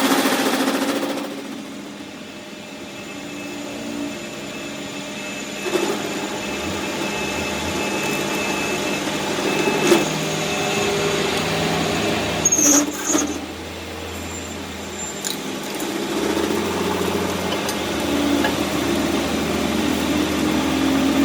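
Workshop machinery running steadily, with a few sharp metal knocks and a brief high squeal partway through.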